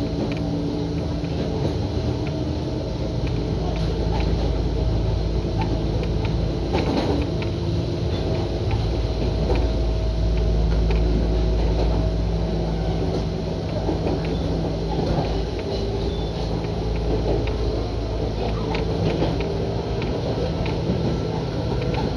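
Running noise inside an Ohmi Railway electric commuter train car under way: a steady low drone and hum from the running gear, with irregular knocks and clicks from the wheels on the track.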